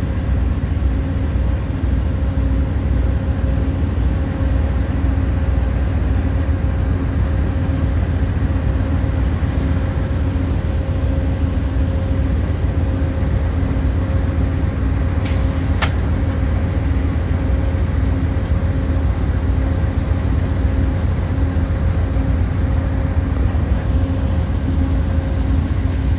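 Diesel locomotive engines of a passenger train running steadily: a loud, even low rumble with a constant hum. A single short click about 16 seconds in.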